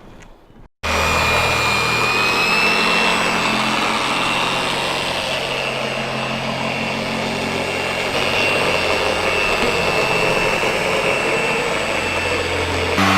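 Audi A3 8V car's engine running steadily with a thin high whistle over it, starting abruptly about a second in.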